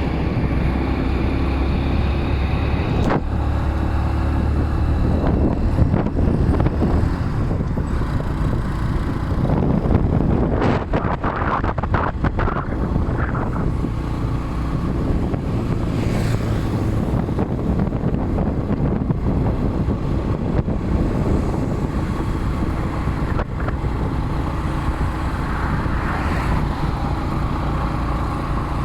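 Boda boda motorcycle taxi's engine running while riding in traffic, its pitch shifting with speed, with wind rushing over the microphone.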